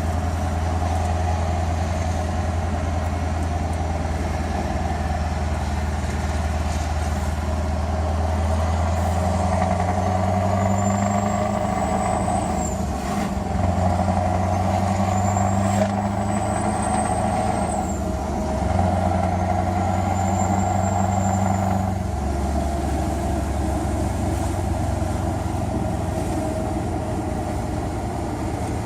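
Scania R500 V8 truck engine with an open exhaust pipe, running steadily, then pulling up three times, its note rising with a high whistle over it and dropping sharply at the end of each surge.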